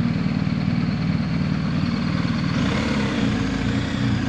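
Adventure motorcycle engine running steadily under way, with a change in its note about two and a half seconds in.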